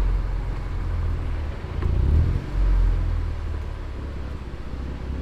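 BMW M2 Competition's twin-turbo inline-six on its factory exhaust, running at low speed with a steady low rumble that swells briefly about two seconds in.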